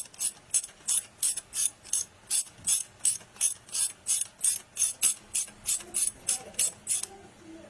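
Ratchet wrench clicking in quick, even strokes, about three a second, as a bolt on the freshly fitted timing-chain tensioner is tightened down; it stops a little before the end.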